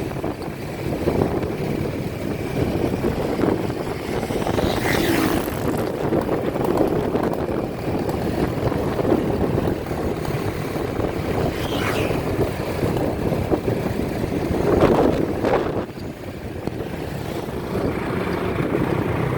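A steady motor rumble with wind on the microphone, and a few short louder rushes of noise.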